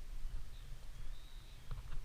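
Thin, high bird whistles, one held for about half a second, over a steady low rumble, with a few sharp clicks near the end.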